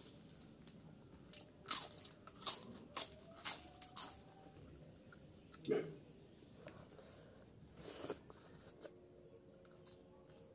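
Eating sounds of a person chewing hand-fed mouthfuls of rice and chicken curry: about five sharp, wet mouth smacks and clicks in quick succession two to four seconds in, then fewer and softer chewing sounds.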